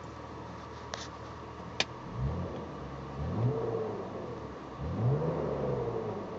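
BMW E39 engine idling, then blipped three times, each rev rising and falling back toward idle, after two sharp clicks near the start. This is the strange noise on acceleration that the owner hears alongside a blinking oil warning light, and he does not know its cause.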